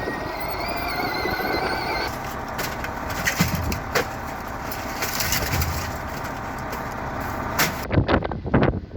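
A heavy motor vehicle running steadily, with a high squeal wavering in pitch during the first two seconds. Near the end the sound changes abruptly to gusts of wind buffeting the microphone.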